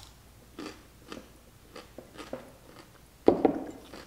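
Close-up chewing and crunching of a pickle spear: short wet crunches about twice a second, with one louder, fuller mouth noise a little after three seconds in.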